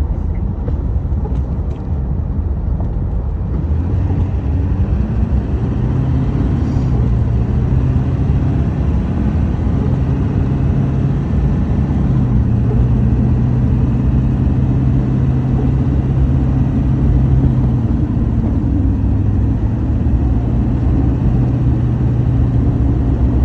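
Steady low rumble of a running motor vehicle, with an engine hum that shifts in pitch a few times.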